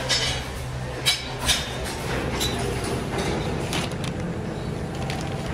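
Sharp metallic clinks from iron-wire cage parts being handled and worked, a handful of separate strikes in the first four seconds, over a steady low workshop hum.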